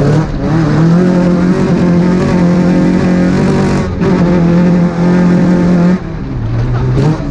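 Two-wheel-drive rally car's engine heard from inside the cockpit, held at high revs on a stage, with a brief lift about four seconds in. The revs drop about six seconds in and rise sharply again just before the end.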